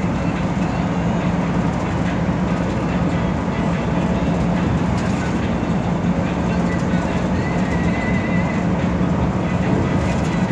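Steady running noise of a moving express bus heard from inside the cabin: a constant engine drone under road and tyre noise. A brief faint high squeak comes about eight seconds in.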